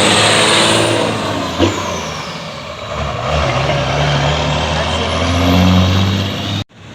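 Classic car engine running loud as the car drives off, swelling again near the end before cutting off abruptly.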